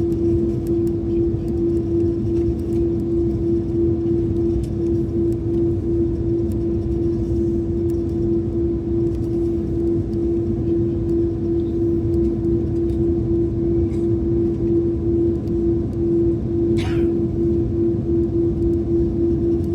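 Airliner cabin noise before takeoff: a steady low rumble with a strong, slightly pulsing hum. About three-quarters of the way in, a brief high squeak slides down in pitch.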